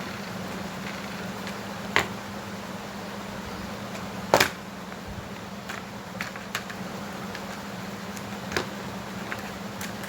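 A few sharp clicks and knocks, the loudest about four seconds in, over a steady low hum.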